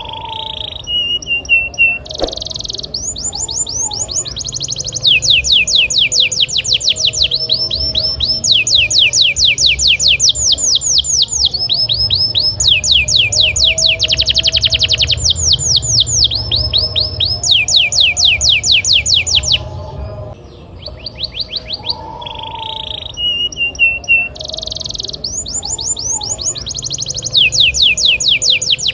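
Domestic canary singing a continuous song of fast rolling trills, each phrase a rapid run of repeated notes lasting a second or two before switching to a new pitch, with a short softer break near the two-thirds mark.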